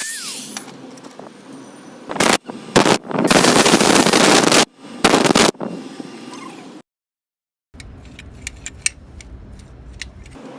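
DIY belt grinder driven by an angle grinder, run in several short loud bursts of harsh grinding noise, the longest lasting about a second. After a sharp break comes a quieter low hum with scattered ticks and clicks.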